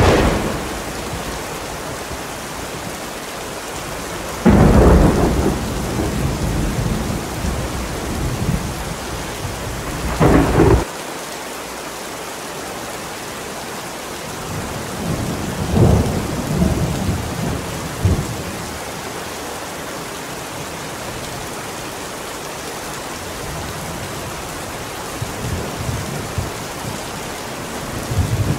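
Steady heavy rain with repeated thunder: a sharp crack right at the start, a long rolling peal from about four seconds in that cuts off suddenly near eleven seconds, another rumble around sixteen seconds, and low rumbling again near the end.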